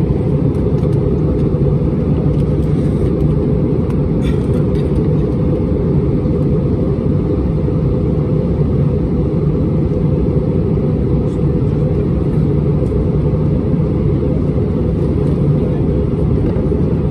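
Steady low rumble of an Airbus A320-231's IAE V2500 engines and rushing air, heard from inside the passenger cabin, with a few faint ticks about four seconds in.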